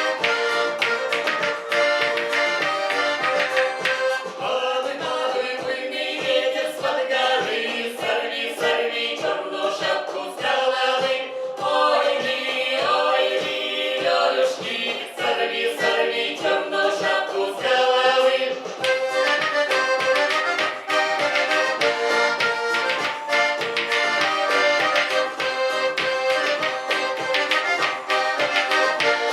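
Folk ensemble music: an accordion plays over a steady, even percussive beat. Voices sing through the middle of the passage, and the accordion and percussion carry on alone near the end.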